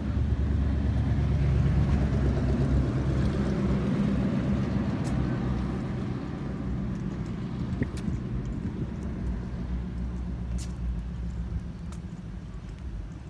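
A motor vehicle's engine running close by, loudest in the first few seconds and then slowly fading away.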